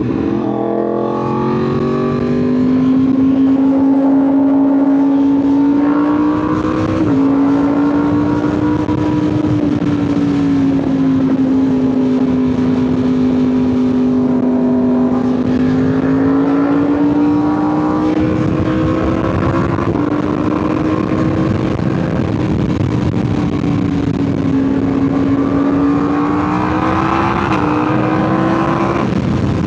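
2025 Yamaha R1's crossplane inline-four through an SC Project CRT titanium exhaust, running at a fairly steady cruise under light throttle while the engine is still breaking in. The pitch drifts gently up and down, with a few brief dips and steps.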